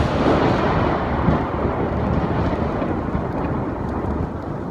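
Loud thunder rumbling from a very close strike, its deep roll slowly fading.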